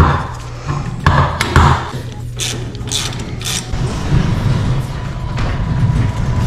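Several knocks and a short run of mechanical clicking and clatter, followed by a steadier low mechanical running noise with a faint high tone coming in near the end.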